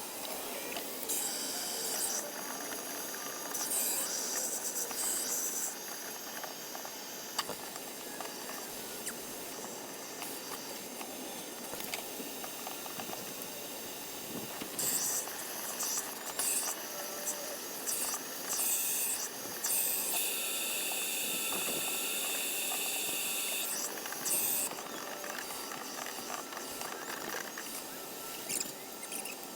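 Insecticide sprayed at a wasp nest in a series of hissing bursts: a few short ones early and around the middle, then one longer spray of about four seconds.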